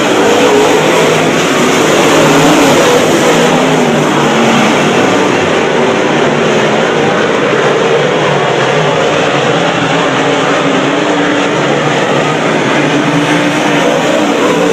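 Dirt-track race car engines running hard at high revs, loud and steady throughout, their pitch wavering up and down as they race.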